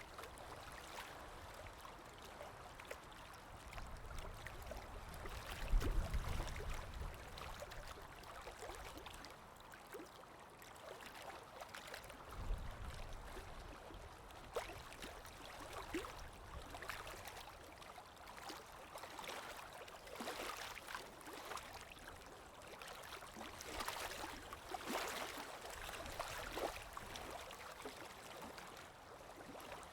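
Ambient recording of water lapping with wind: small waves splashing and lapping over a steady wash, with low wind gusts rumbling in about 6 and 12 seconds in.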